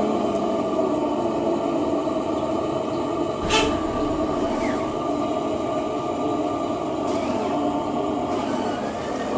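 A motor running steadily with a constant hum, broken by a short sharp hiss about three and a half seconds in and a fainter one about seven seconds in.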